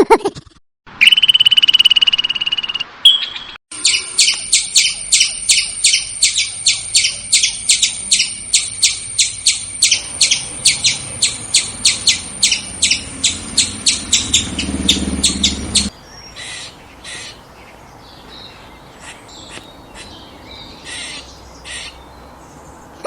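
Squirrel alarm calls: a short buzzing trill, then a long run of sharp, high chirps repeated about three times a second. The chirps stop suddenly about two-thirds of the way through, followed by fainter scattered calls.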